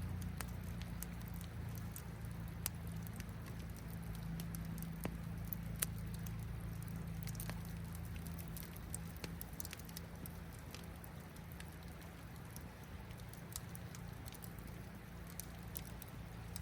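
Campfire crackling, with sparse sharp pops and ticks scattered through it, over a steady low rumble.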